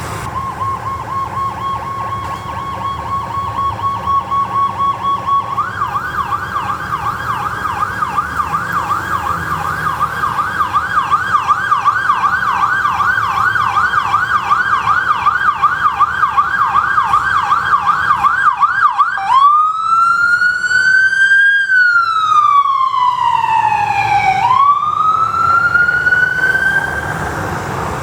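Emergency vehicle's electronic siren passing on a response, over engine and road noise. It holds a steady tone at first, switches to a fast yelp, about three sweeps a second, about six seconds in, then changes to a slow rising and falling wail near the end.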